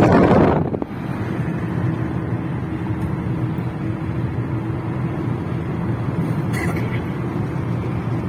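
Vehicle engine running steadily while driving. A loud rush of wind noise on the microphone cuts off under a second in, leaving an even low engine hum.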